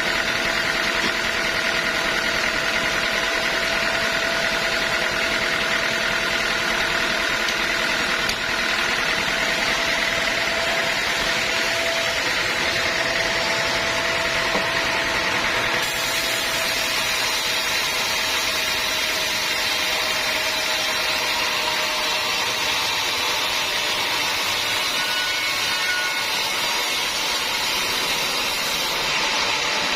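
Sawmill machinery running steadily with a constant mechanical hum and several held tones. About halfway through, a bright hiss joins in and drops away shortly before the end.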